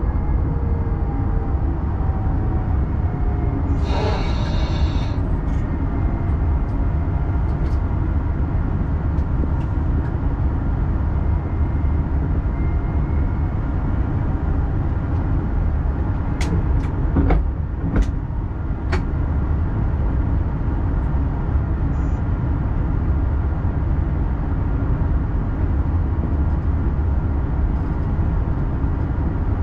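X40 double-deck electric multiple unit running on the line, heard from the cab as a steady low rumble. A whine falls in pitch at the start, a brief hiss comes about four seconds in, and a few sharp clicks follow around the middle.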